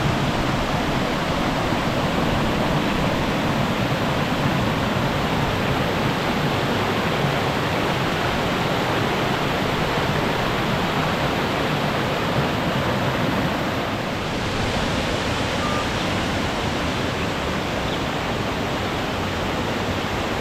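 Water falling and rushing steadily at a waterfall, an even, loud rushing noise.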